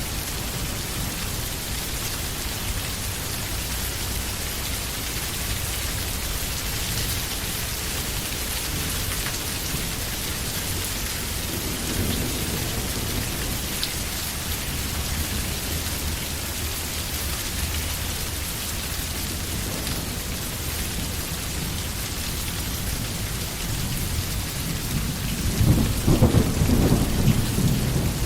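Steady rain falling in a forest, an even, dense hiss. A low rumble swells about twelve seconds in, and again, louder, near the end.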